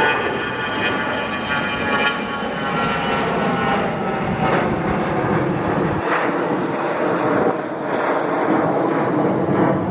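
Airliner's engines running loud as the aircraft passes: a broad rush of engine noise with a whine of several steady tones that fades after the first few seconds.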